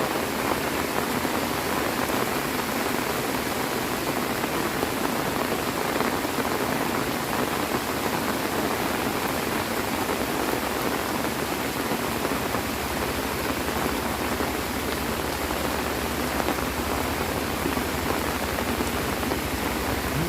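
Heavy rain falling steadily, a dense even hiss of rain pattering on surfaces.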